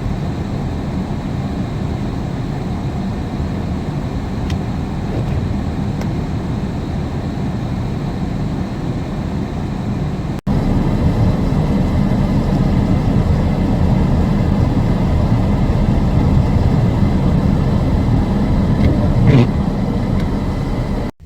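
Steady road and engine rumble of a vehicle driving, heard from inside. The sound cuts off abruptly about halfway through, then resumes a little louder.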